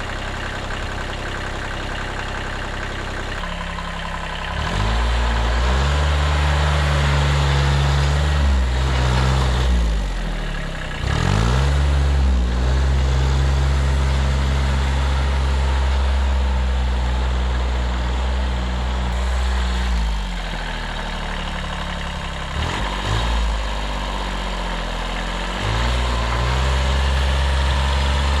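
1978 Kubota B6100's 14 HP diesel engine idling, then revving up about four seconds in and running at higher revs, with brief drops in revs a few times.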